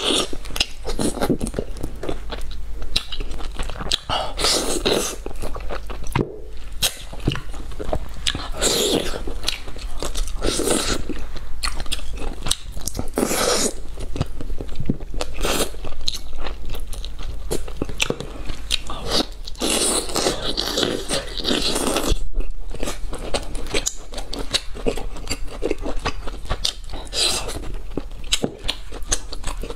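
Close-miked mukbang eating sounds: a woman biting and chewing spicy bullfrog meat off the bone, in repeated irregular bouts with a brief pause twice.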